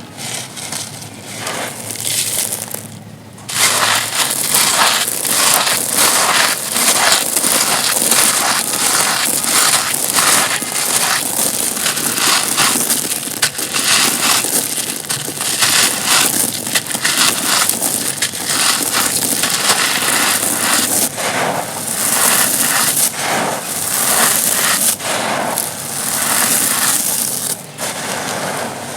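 Dry, dusty, stony chunks being crushed and crumbled, giving dense, irregular crunching and crackling. It is quieter for the first few seconds, then runs on loud and steady.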